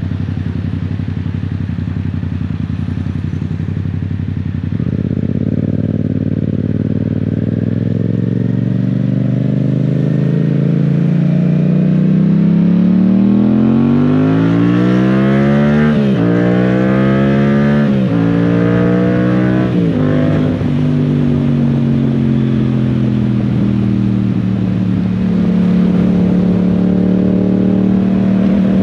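Yamaha Tracer 700's 689 cc parallel-twin engine, heard from the rider's position. It runs steadily, then pulls hard with its pitch climbing, drops three times in quick succession at upshifts about halfway through, and settles to a steady cruise. A steady hiss of wind and rain lies underneath.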